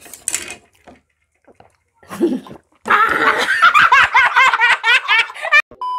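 A person laughing hard, in a quick run of rising and falling ha-ha pulses lasting about three seconds. Near the end a steady electronic beep starts.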